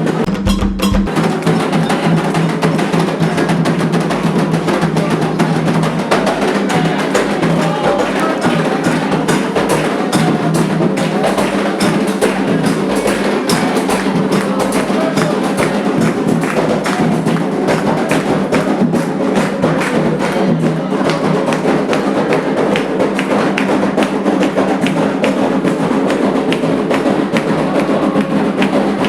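Candomblé ritual drumming: atabaque hand drums and other percussion playing a fast, steady rhythm without a break.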